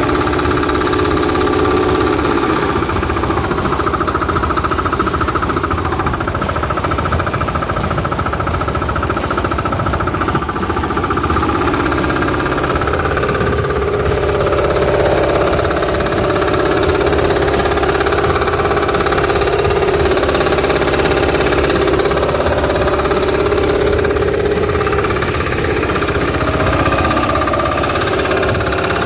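Engine of a used farm machine running steadily with a rapid rattling beat, its pitch shifting slightly now and then during an operation check.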